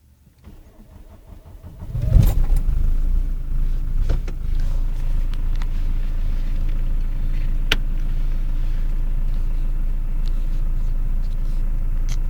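Mercedes-Benz C220 diesel engine being cranked and catching about two seconds in with a loud burst, then settling into a steady idle.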